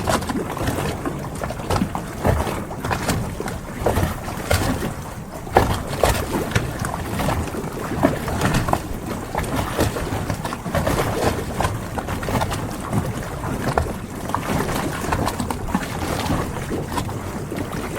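Harbour ambience: water sloshing and lapping around moored boats, with frequent irregular small knocks and splashes and some wind on the microphone.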